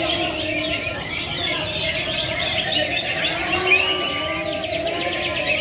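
Many caged songbirds chirping and calling at once, a dense tangle of short overlapping chirps and whistles.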